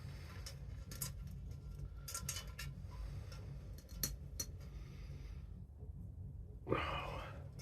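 Light clicks and clinks of chin-strap hardware being handled and fitted on a steel M1 helmet, scattered through the first five seconds over a low steady hum. Near the end there is one brief, louder sound.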